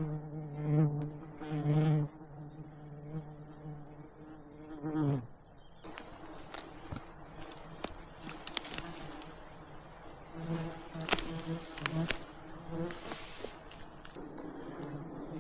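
A flying insect buzzing close by, a steady low-pitched hum that stops about five seconds in and returns in short broken stretches near the end. Scattered sharp clicks and taps are heard in the middle.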